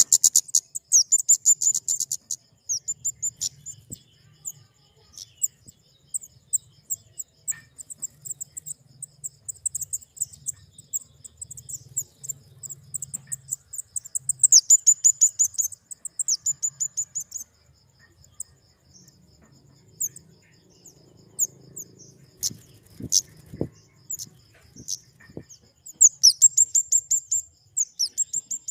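Flowerpecker (kemade) calling: very high, dry ticking chips, mostly given in rapid runs of ticks. The longest runs come at the start, about halfway through and near the end, with scattered single chips between them.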